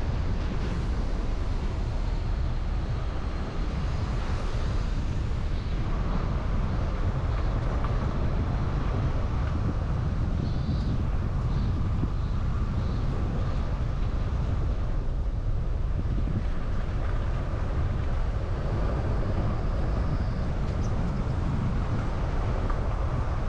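Steady road noise from a vehicle driving, with low wind rumble on the built-in camera microphone.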